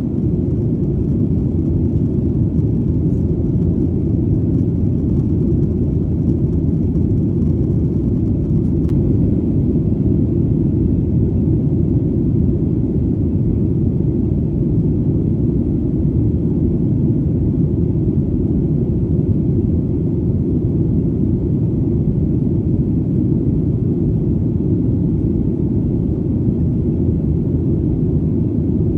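Airplane in flight heard as a deep, even rumble of engine and airflow that holds steady without change.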